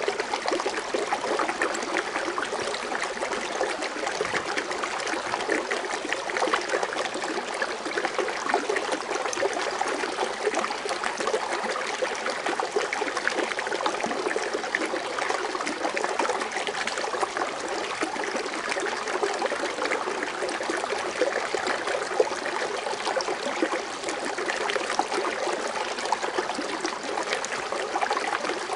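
Water fountain splashing and trickling steadily, a continuous bubbling wash of falling water.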